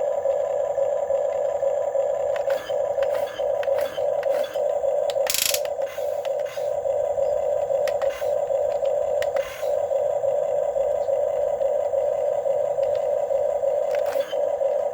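Huina 1550 RC excavator's small electric motors and gearing whining steadily at one pitch, with brief dips and faint clicks as the controls change. About five seconds in there is a short rushing burst.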